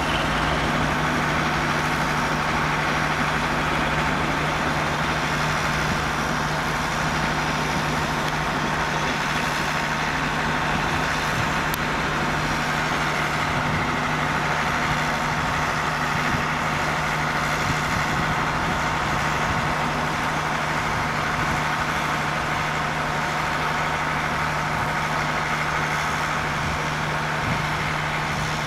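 Steady drone of a train standing idle, with a constant low hum and no change in pitch or loudness.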